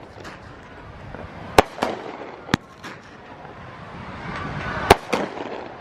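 Fireworks exploding overhead: three sharp bangs a second or two apart, each followed by a weaker echoing crack, the loudest about five seconds in.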